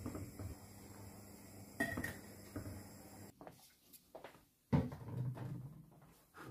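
A series of household knocks and clatters, like a cupboard door and dishes being handled, with the sharpest knock about three-quarters of the way through.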